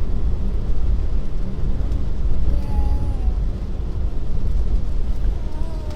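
Steady low rumble of an electric car driving on a rain-soaked road, heard from inside the cabin: tyre and road noise with rain on the car.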